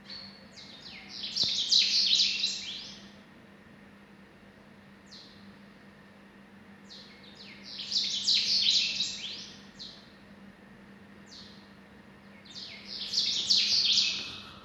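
A bird chirping in three bursts of rapid, high, clustered notes, each a couple of seconds long and a few seconds apart, with a few single notes leading into each burst. A faint steady low hum runs beneath.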